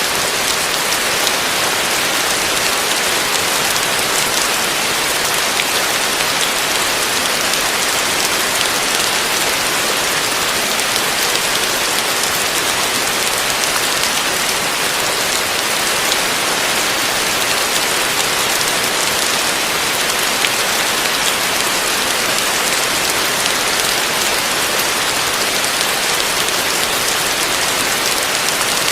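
Heavy rain falling steadily: a dense, even hiss with faint scattered drop hits, unchanging throughout.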